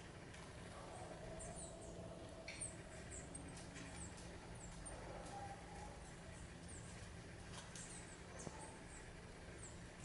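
Faint, short, high-pitched chip calls of small birds, scattered irregularly and a few per second at most, with a few soft clicks over a low steady background hum.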